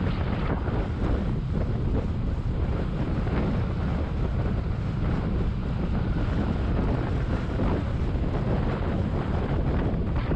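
Steady wind buffeting the microphone of a GoPro on a motorcycle moving at speed: a deep, even rushing rumble.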